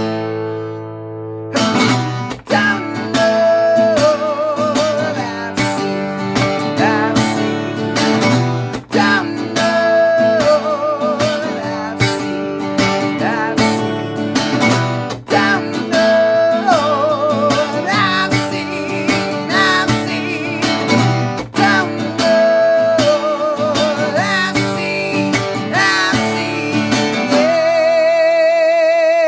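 Acoustic guitar strummed steadily under a melody line that wavers in pitch. The piece ends on a long held, wavering note near the end.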